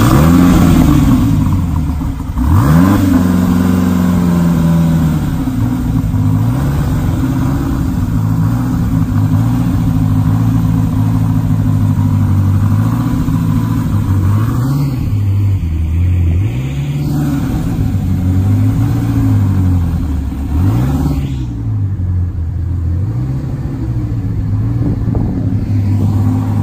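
SSC Tuatara's twin-turbo V8 just after start-up, coming in loud at once with a flare of revs, then running at idle. A series of short throttle blips in the second half sends the revs up and back down several times.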